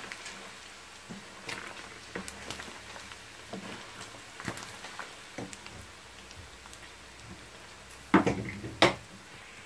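Chicken and spice masala frying gently in oil over a low flame: a soft, steady sizzle with a wooden spoon scraping and tapping the pan now and then, and two louder knocks near the end.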